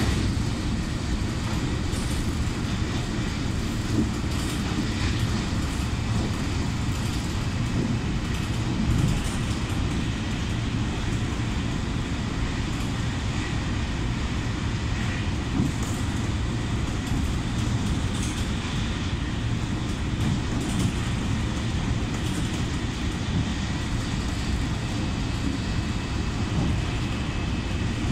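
Steady low rumble of a moving passenger train, heard from inside the carriage, with a few faint knocks along the way.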